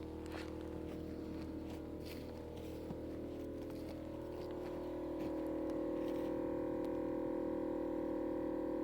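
Tofaş Doğan SLX car engine running at a steady idle, with scattered light clicks in the first half; it gets louder about five seconds in.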